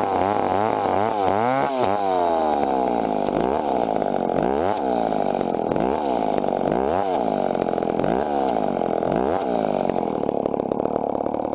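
Two-stroke chainsaw running hard, its engine pitch repeatedly rising and falling, about once every second or so, then holding steadier near the end.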